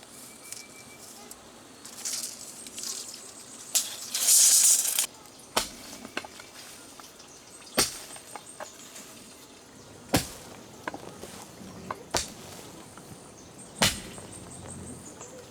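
A series of sharp knocks, about one every two seconds, with a loud hissing scrape lasting about a second roughly four seconds in.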